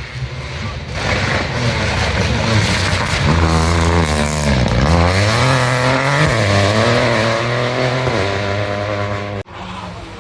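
Rally car engine revving close by: its pitch dips about halfway through, climbs again, then holds steady. The sound cuts off suddenly near the end.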